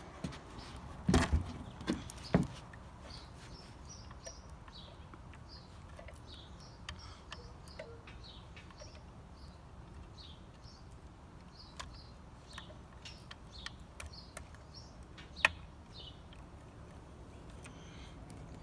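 Small birds chirping over a steady low background hum, with a cluster of loud sharp knocks about a second in and a single sharp click near the end.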